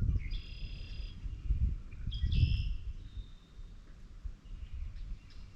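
A bird calling twice, each call a short high note lasting under a second, followed by a few fainter thin whistles. Under the calls is a low rumbling noise that swells twice.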